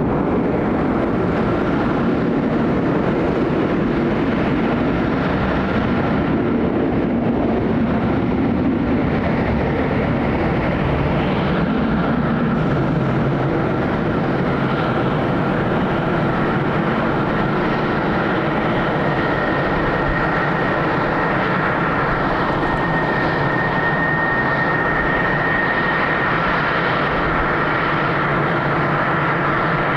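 Jet airliner engines running with a steady rush and a high whine; another whine tone comes in about two-thirds of the way through.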